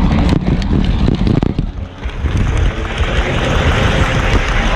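Model train running along its track: a steady rumble, with a brief lull about two seconds in.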